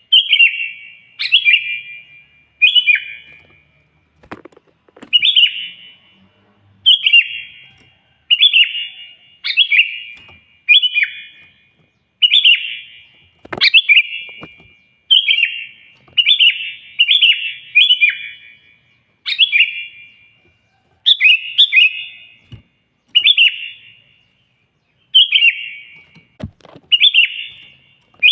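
Sooty-headed bulbul (kutilang) singing loudly in a 'gacor' (in full song) bout of short, bubbly, falling phrases repeated about once a second. Recordings like this are played to provoke a rival bulbul into answering.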